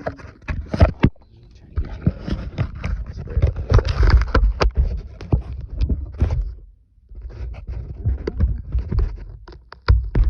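Irregular clunks, knocks and scraping as the engine and transmission are worked on by hand during removal on an engine hoist. The sound comes in two busy stretches with short pauses about a second in and about two-thirds of the way through.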